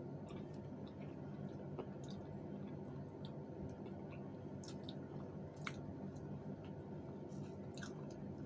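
People chewing food with wet, scattered little smacks and clicks of the mouth, over a steady low hum.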